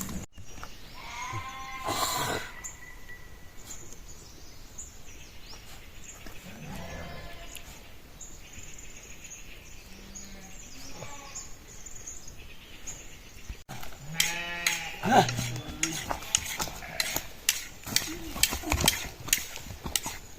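Sheep bleating twice, one call early and one about two-thirds of the way through, followed by a run of sharp clicks or knocks.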